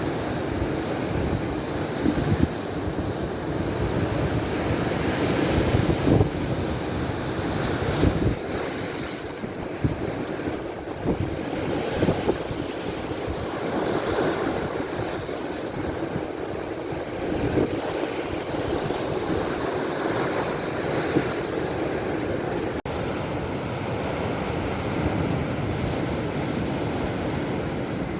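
Baltic Sea surf washing on the shore, with wind buffeting the microphone in gusts.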